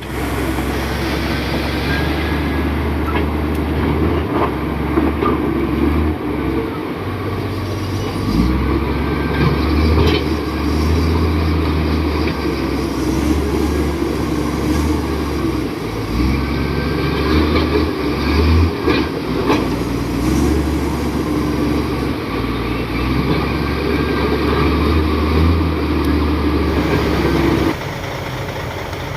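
Komatsu D58 crawler bulldozer's diesel engine running under varying load, the low engine note rising and easing every few seconds, with a few knocks along the way. The engine drops away near the end.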